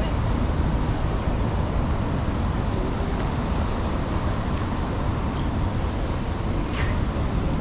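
Steady street ambience, mostly a low rumble of traffic and wind on the microphone, with a couple of faint ticks.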